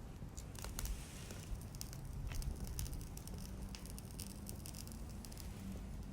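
Wood bonfire crackling, with scattered sharp pops and snaps.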